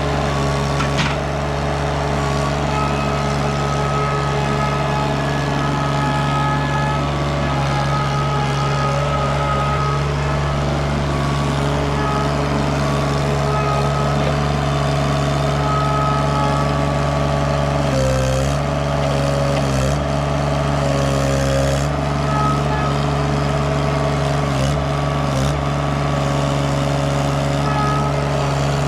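KRT ST900HD mini skid steer engine running steadily, with its pitch dipping briefly twice about two-thirds of the way through as the hydraulics take load.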